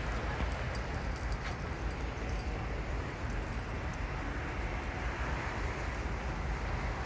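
Steady low rumble and noise of a moving vehicle, with a few faint ticks in the first couple of seconds.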